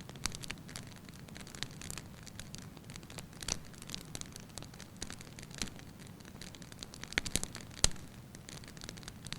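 Firewood burning in a fireplace: a low steady rush of flame under scattered light crackles and pops, with a quick run of louder pops a little after seven seconds in.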